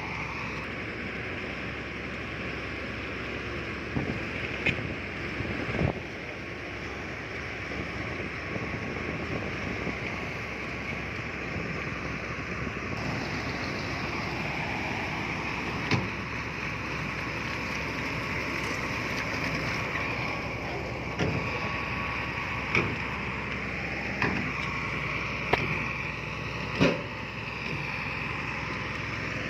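Heavy earth-moving machinery, a bulldozer or dump truck, running steadily, with sharp knocks or clanks standing out now and then: three between about four and six seconds in, and a run of them in the last third.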